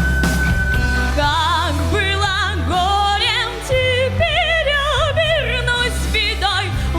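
Song backing track with a steady bass: a held woodwind note fades out about a second in, then a girl's voice sings a melody with strong vibrato.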